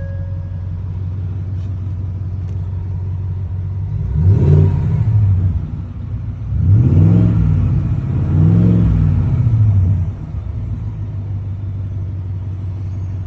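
Ford F-150 Raptor R's 5.2-litre supercharged V8 idling, then revved three times, from about four seconds in, each rev rising and falling in pitch, before settling back to a steady idle.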